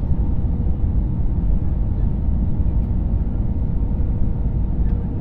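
Steady low rumble of engine and airflow noise inside the cabin of an Airbus A320-family airliner during landing, with a faint steady hum running through it.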